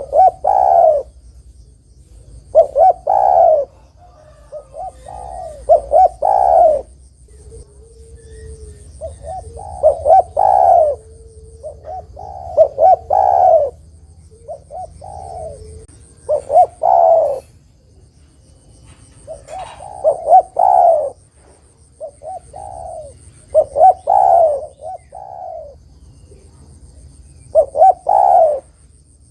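Spotted dove (derkuku) cooing: short phrases of a few coo notes, repeated about every two to three seconds, as a lure call for other doves.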